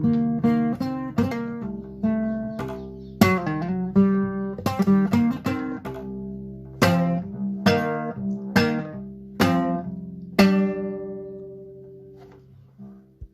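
Acoustic guitar playing a run of plucked and strummed chords. The final chord, about ten seconds in, is left to ring and fades away.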